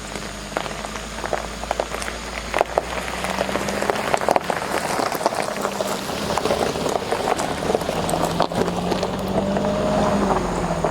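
Toyota Land Cruiser 300 driving over gravel: a steady low engine hum that rises a little near the end, under many sharp crackles and pops of stones under the tyres.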